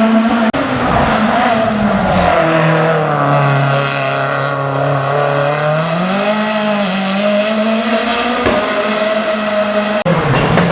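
Hill-climb race car engine running hard. Its pitch drops about two seconds in, holds lower, then climbs again past the middle, with an abrupt change near the end.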